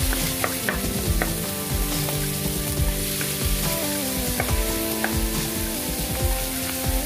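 Tomatoes, onion and garlic sizzling in hot oil in a wok while a wooden spatula stirs and presses them, with irregular scraping taps of the spatula on the pan. Soft background music with held notes runs underneath.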